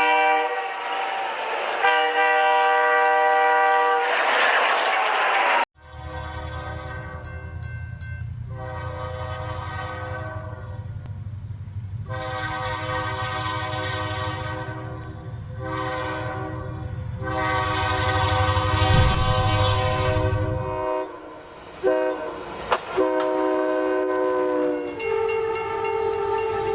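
Locomotive horns sounding a string of long chord blasts, about a dozen, over the low rumble of a moving train. The last blast drops in pitch as the train passes. The sound cuts abruptly about six seconds in, as one clip gives way to the next.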